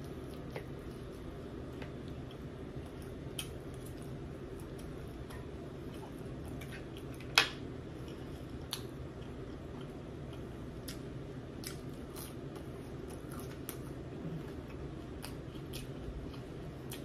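A person eating close to the microphone: soft chewing and scattered small mouth clicks over a steady low hum, with one sharp, louder click about seven seconds in.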